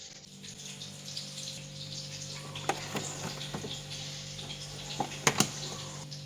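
A steady hum and hiss, with a few sharp clicks and knocks of things being handled: two about two and a half to three seconds in and a louder pair near five seconds.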